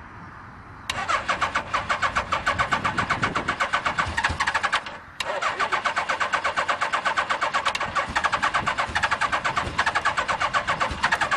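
Suzuki GS850G's electric starter cranking the cold four-cylinder engine with the choke on, in two long bursts with a short break about five seconds in. A fast, even chugging as the engine turns over without catching.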